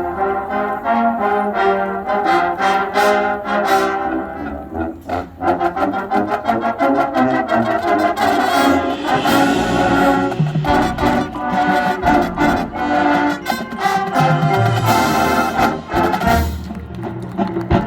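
Marching band playing its field show: full brass section with percussion, a loud ensemble passage of rhythmic chords.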